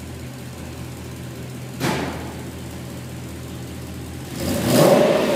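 BMW M60B30 3.0-litre V8 engine idling steadily. It gives a quick sharp blip of revs about two seconds in, and a longer, louder rev that swells up near the end.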